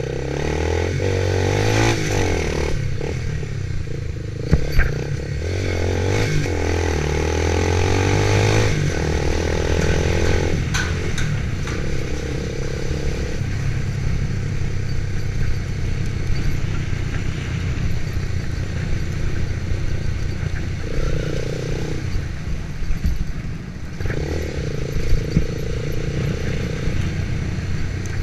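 Motorcycle engine running while riding, its pitch shifting up and down over the first ten seconds or so, then steadier, with a couple of short knocks.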